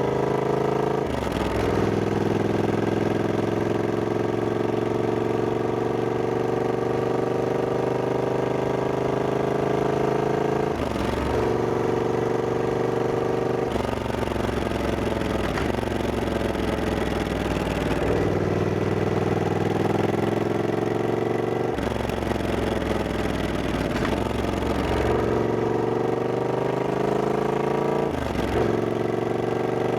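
Triumph Scrambler 1200X's 1200 cc parallel-twin engine running under way. The engine note drifts slowly, then dips sharply and recovers about six times as gears are changed.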